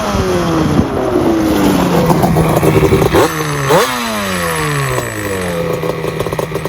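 Yamaha Banshee 350 twin-cylinder two-stroke engine running through a MOTOFAST 2-into-1 exhaust under a rider's throttle. The pitch falls off for the first few seconds, jumps twice with two quick throttle blips about three and four seconds in, then eases down and holds steady.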